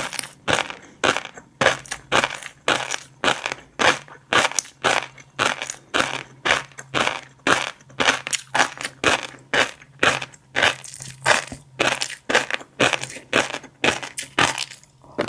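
Close-up chewing of fish roe, the small eggs popping between the teeth in continuous clusters of sharp little pops, several a second.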